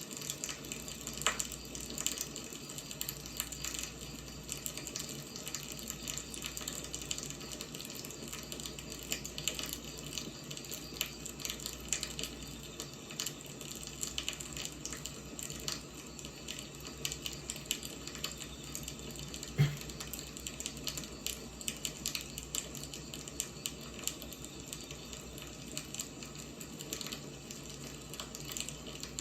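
Firewood burning with a steady mass of fine crackles and small pops, one louder pop about two-thirds of the way through.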